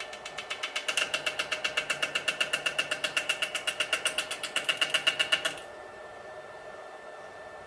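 Lathe cutter tapping against a spinning rough wooden drum shell in a fast, even rhythm of about eight hits a second, louder from about a second in: the cutter is just kissing the shell's high spots on each turn, as on a shell not yet turned round. The tapping stops suddenly, leaving the lathe's steady running hum.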